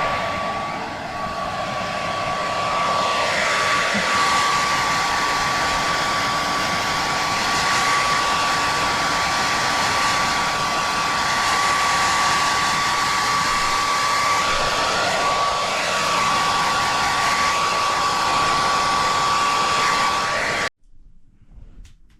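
Hand-held hair dryer running, a steady rush of air with a constant high whine, its tone shifting slightly as it is moved about; it cuts off abruptly near the end.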